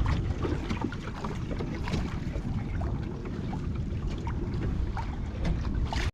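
Wind rumbling on the microphone over open water, with scattered small splashes and light knocks from a pedal-driven paddleboard under way.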